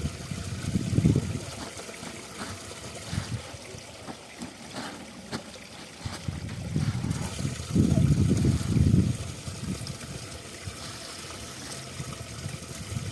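Mountain spring water running and trickling steadily, with two louder, low-pitched stretches: about a second in and again around eight to nine seconds in.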